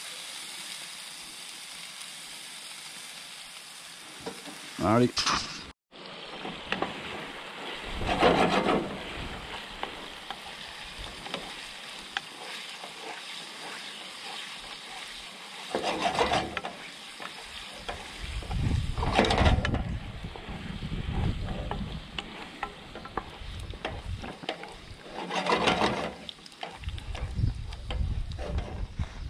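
Catfish pieces sizzling as they fry in a pan, with a utensil stirring and scraping through them in several louder stretches.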